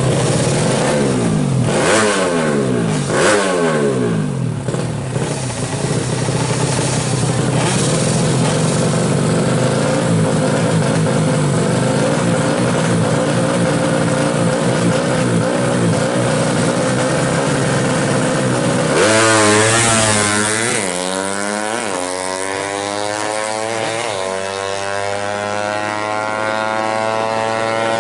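150cc drag bike engine: a few quick throttle blips at the start, then running steadily at high revs. About two-thirds of the way through it accelerates hard, its pitch rising again and again as it pulls through the gears.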